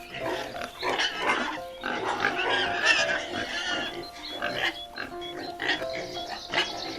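Farm animals calling, many short overlapping calls, over background music with steady held notes.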